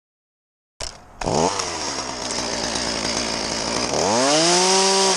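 Two-stroke chainsaw running at idle after a sudden start of sound, then revved up to full throttle about four seconds in and held at high speed.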